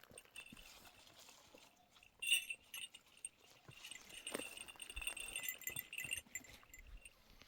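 Bells on grazing sheep clinking and jangling irregularly as the flock moves, loudest in a jangle about two seconds in and ringing on for about four seconds, among scattered small knocks.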